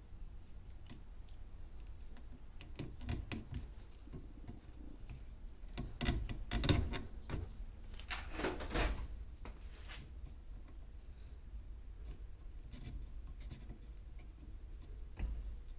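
Scattered rubbing and scraping with small knocks, as of hands working on an object, busiest in a cluster of strokes about six to nine seconds in.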